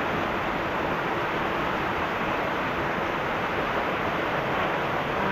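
Steady rush of water from a canyon stream or cascade, an even noise that does not change.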